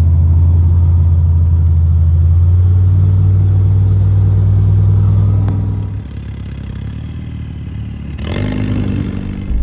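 Off-road vehicle engine running steadily with a strong low hum, which falls away about six seconds in, followed by a brief louder burst near the end.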